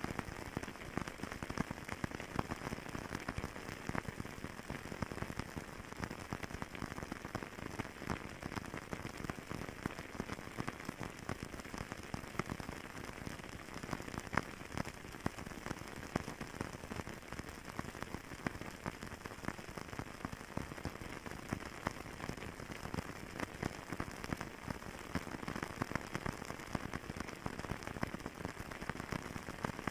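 Wood fire crackling steadily, with a dense run of small pops and crackles and a few louder snaps.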